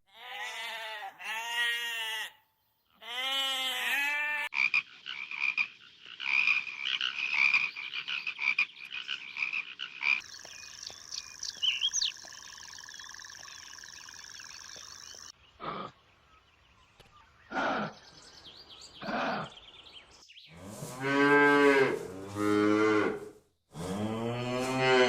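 A run of separate animal-call recordings, one after another: a few arching calls at the start, then a dense continuous croaking chorus for about ten seconds, then scattered calls and two loud, long, low calls near the end.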